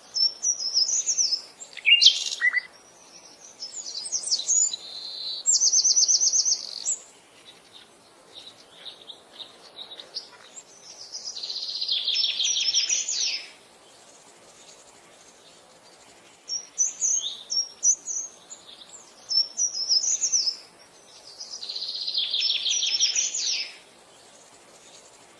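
Several birds singing and calling: quick high chirps and whistled phrases, with a rapid trill lasting about two seconds heard twice, once near the middle and again near the end.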